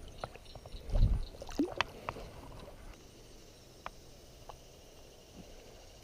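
Kayak on the move: paddle strokes and water splashing, with sharp knocks against the hull and a low thump about a second in.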